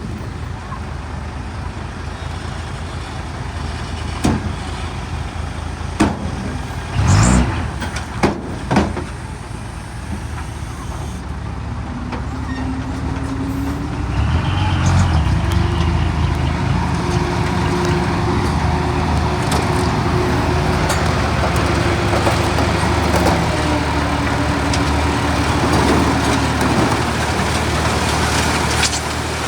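Heavy diesel engine of earthmoving equipment running, with a few sharp knocks several seconds in. Then the engine works harder and louder, its pitch rising and holding, before easing off near the end.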